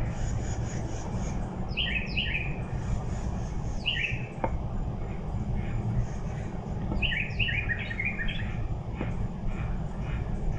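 A bird calling: short chirps that slide down in pitch, a pair about two seconds in, one near four seconds, then a run of five or six around seven to eight seconds, over a steady low rumble.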